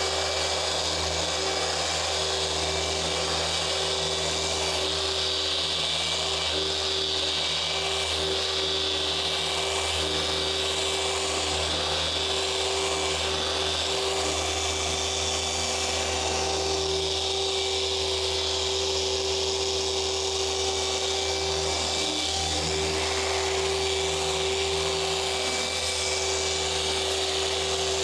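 Dual-action car polisher running steadily on the paint during a paint-correction pass, a constant whir with a steady pitch.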